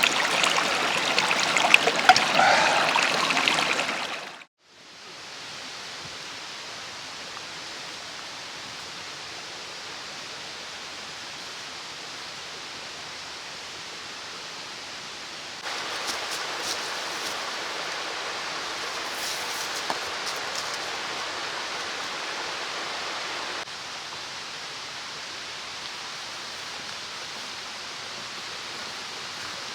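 Mountain stream flowing, a steady rush of water. It fades out briefly about four seconds in and comes back quieter, then is louder for several seconds in the middle, with a few faint ticks, before dropping back.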